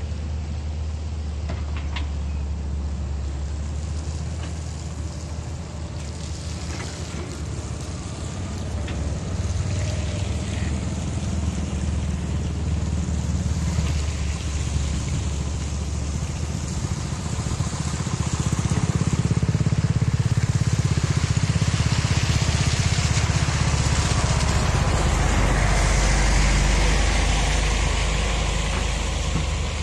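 Heavy earthmoving machinery's diesel engine running steadily with a low drone, growing louder about two-thirds of the way through. A few sharp knocks are heard in the first ten seconds.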